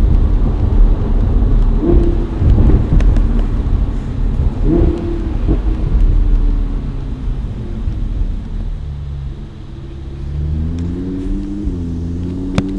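Lamborghini Huracán Spyder's V10 engine running while driving, heard from the open-top cabin: a loud low rumble with two brief rises in pitch in the first five seconds, then quieter, the engine note climbing, dipping and climbing again in the last few seconds.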